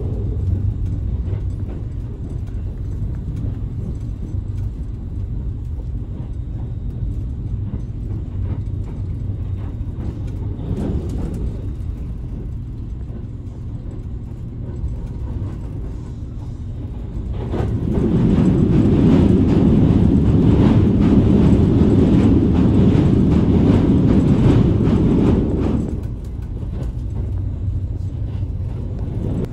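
Cabin noise of a JR Kyushu 787 series electric limited express running at speed: a steady low rumble of wheels on rail. About two-thirds of the way through it swells into a louder rushing roar for about eight seconds, then drops back to the steady rumble.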